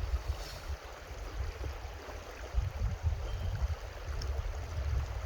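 Creek water running steadily, with an uneven low rumble underneath.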